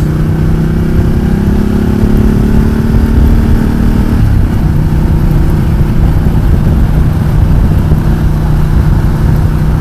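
Ducati Multistrada 1200 S's L-twin engine running at low revs while riding, its note rising slightly. About four seconds in the engine note shifts, then holds steady.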